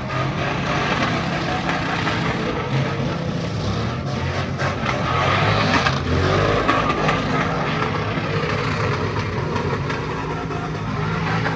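Car engine revving hard and held at high revs over a dense noisy haze, louder about halfway through.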